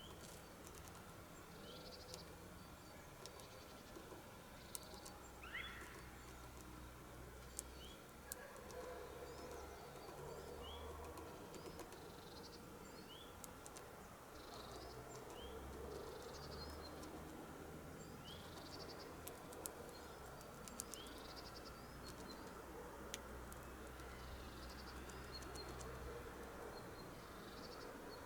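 Faint, short rising bird chirps repeating about once a second, with scattered sharp taps that fit a blue tit pecking at a sunflower seed, over a low steady background hum.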